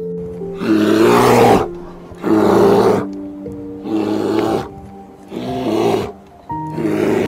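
Brown bear giving five loud calls, each about a second long, evenly spaced, over background music.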